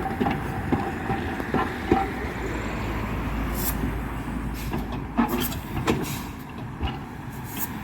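A train on a heritage railway running, with a steady low rumble, scattered clicks and knocks, and several short hisses in the second half.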